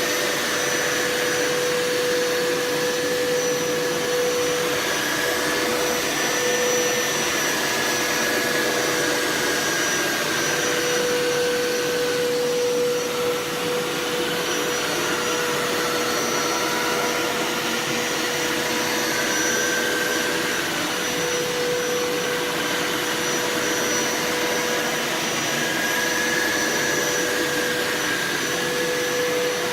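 Hoover Power Scrub Elite carpet cleaner running steadily: a constant motor whine with a second, higher tone that drifts slightly in pitch.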